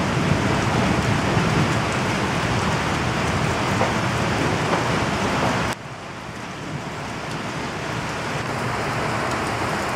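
Heavy rain pouring down, loud and steady on the shop roof overhead. Just before six seconds in the sound drops suddenly, then slowly builds back.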